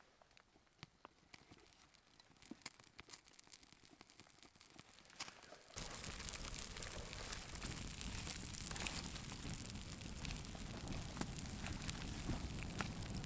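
Scattered drops of light rain ticking on a tarp. About six seconds in, a sudden, louder crinkling rustle starts and continues.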